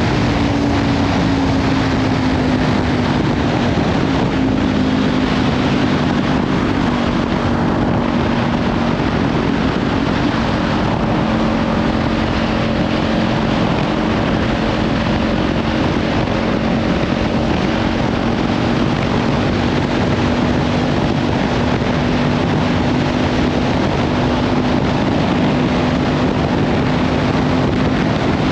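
Kawasaki Ninja 500 parallel-twin with a Leovince slip-on exhaust, running at a steady cruise. Its pitch eases down slightly in the first few seconds and then holds. Heavy wind noise on the microphone lies over it.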